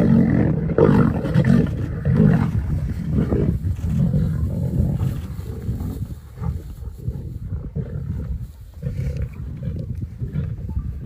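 Lions at a kill, giving deep, repeated growling roars, loudest in the first few seconds and then weaker.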